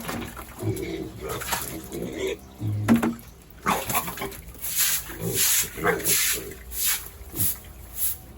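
Pigs in a pen giving a run of short, noisy grunts and squeals, one after another about every half second.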